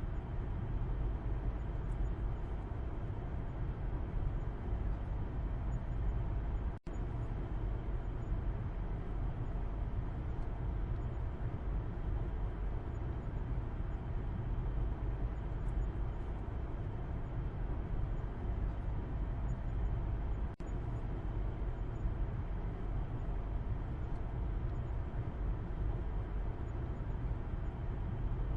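Steady low road rumble and engine drone of a car driving, heard from inside the cabin in the back seat. The sound cuts out for an instant twice, about seven and twenty seconds in.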